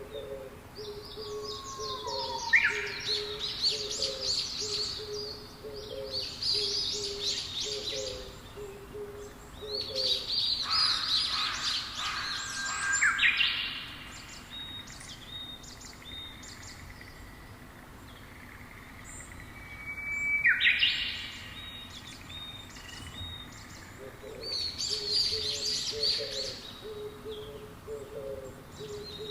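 Wild songbirds singing in separate bursts of rapid, chirping song. Behind them a low call repeats about once a second for the first ten seconds and again near the end.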